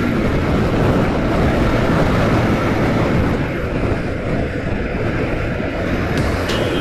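Wind rushing over the microphone of a Bajaj Pulsar 150 motorcycle ridden fast on a highway, a steady rush heaviest in the low range, as the rider pushes it toward its top speed.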